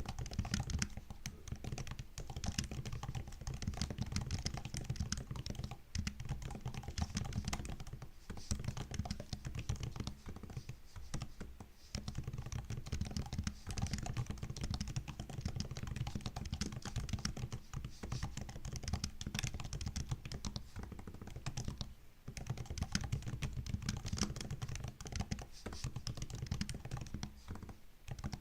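Continuous fast typing on a MacBook's built-in laptop keyboard: dense, irregular key clicks and taps, with brief pauses every few seconds.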